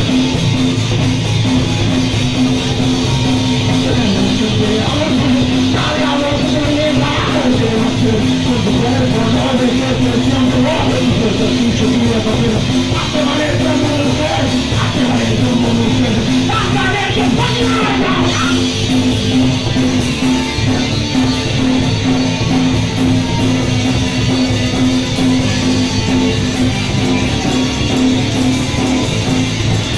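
A punk band playing a song live: loud guitar-driven rock with a voice singing from about five to eighteen seconds in, then instrumental.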